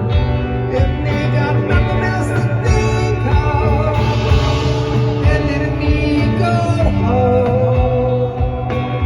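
Live rock band playing a slow song, guitars over bass and drums, with a voice singing.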